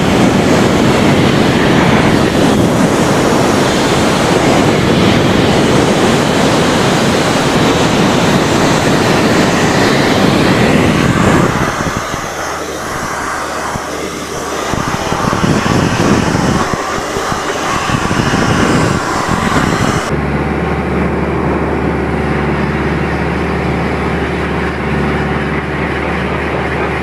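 Compressed air from an air hose blasting hard against a clogged radiator/cooler core, a loud rushing hiss over the steady drone of a diesel air compressor's engine. After about 11 seconds the blasting weakens and comes in short spurts. About 20 seconds in it stops, leaving only the diesel engine running steadily.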